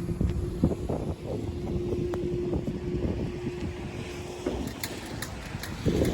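Class 171 diesel multiple unit running with a low rumble, with a steady tone that stops about two-thirds of the way through, then a few light ticks.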